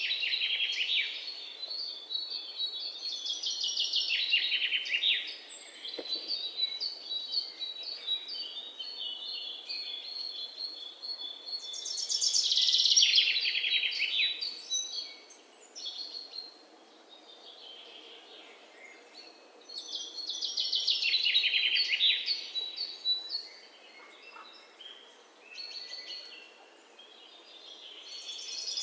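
Songbirds singing: a loud, rapid trill about two seconds long, falling in pitch, repeats roughly every eight seconds, with quieter runs of high chips and short calls in between.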